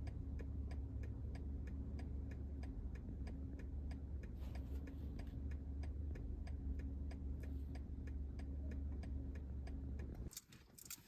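Car's indicator ticking steadily, about two to three clicks a second, over the low hum of the engine idling. Both stop about ten seconds in, as the car is switched off.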